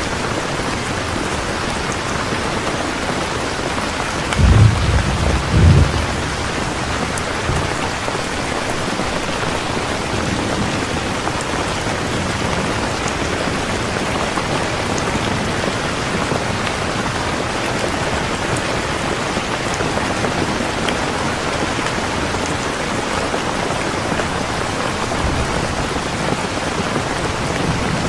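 Steady heavy rain, with a short low thunder rumble in two pulses about four and a half seconds in.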